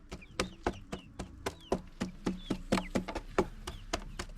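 Hard dried peppers being pounded to crush them: a string of sharp knocks at about three a second. Chicks cheep faintly alongside.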